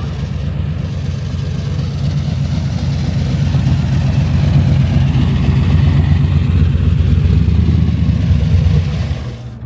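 Hot rod engine rumbling loudly as the car rolls slowly past, growing louder as it comes close, then dropping away suddenly near the end.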